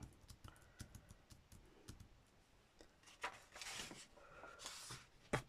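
Faint rustling of paper with light clicks and taps as paper cut-outs are moved about on a craft table.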